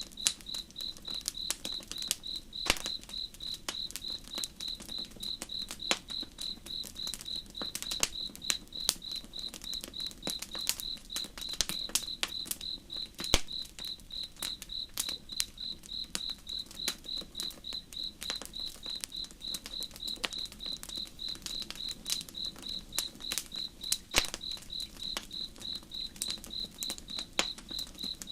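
Campfire crackling with scattered sharp pops, the loudest about halfway through, while a cricket chirps steadily at about three chirps a second. A low, even rush of flowing river water lies underneath.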